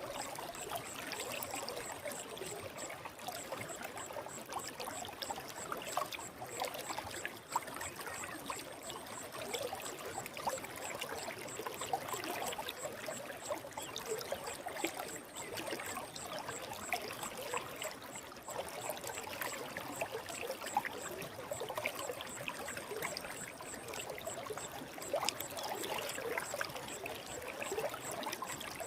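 Forest stream flowing: a steady babble and trickle of running water.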